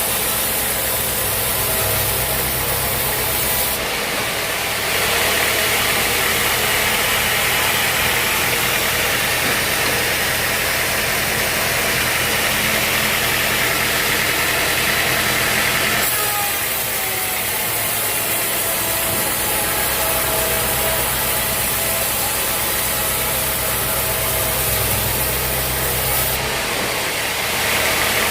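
Sawmill engine running steadily while the saw cuts through a teak log, a hissing sawing sound over the engine; the sound of the cut shifts a few seconds in, again just past the middle, and near the end.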